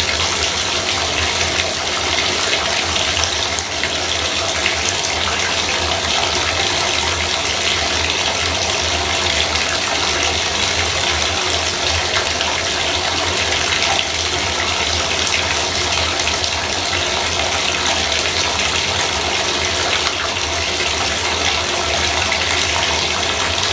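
Bathtub faucet running steadily, a continuous hiss of water pouring into the tub.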